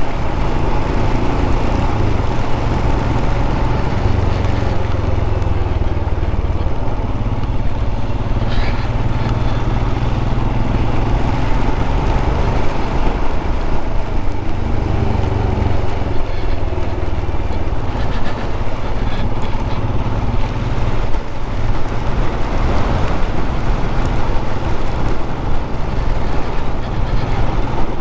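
Royal Enfield single-cylinder motorcycle engine running steadily under way, with rushing wind and road noise on the microphone.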